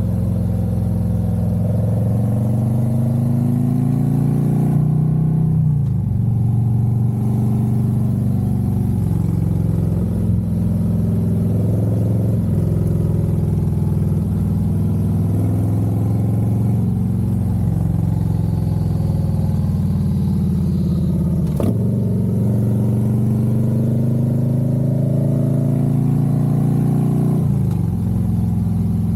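Harley-Davidson Road Glide's V-twin engine under way, pulling through the gears: the engine note climbs steadily and then drops sharply at each shift, several times over, with some wind rush.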